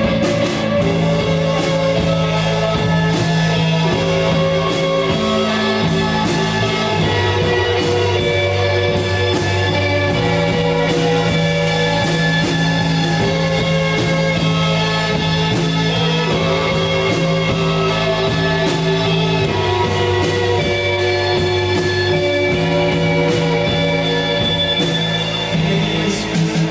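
Rock band playing an instrumental passage: electric guitar and drums over long held bass notes that change every few seconds. Near the end the playing thins and turns uneven.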